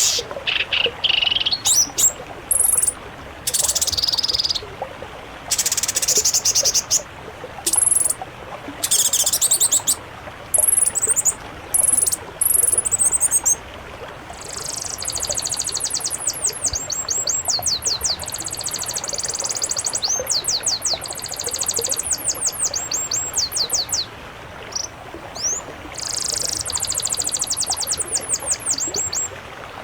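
Mixed songbird song: high-pitched bursts of chattering and trilling notes in the first half, then long runs of rapid, repeated sweeping whistles from about halfway through, over a steady background hiss.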